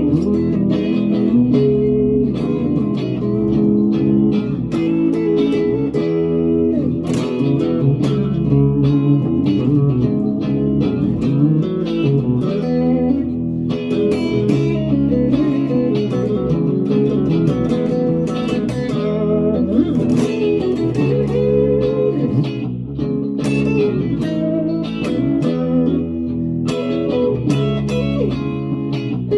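Fender American Vintage '52 Hot Rod Telecaster electric guitar being played: a continuous run of picked single notes and chords with no pause.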